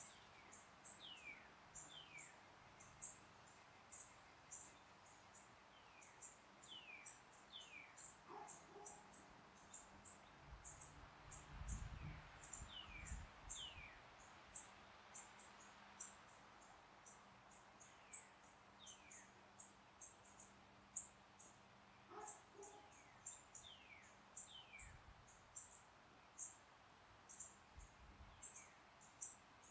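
Faint birdsong: a bird repeating pairs of high whistled notes that fall in pitch, every few seconds, over a steady run of rapid, very high chirps. A low rumble of wind on the microphone swells briefly about a third of the way in.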